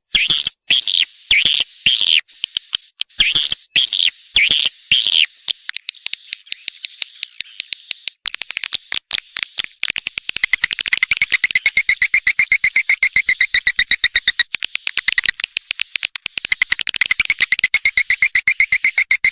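Swiftlets twittering: a fast, dense run of high chirps and clicks. Loud irregular bursts of chirps come in the first five seconds, and the chirping thickens into a continuous fast stream about ten seconds in.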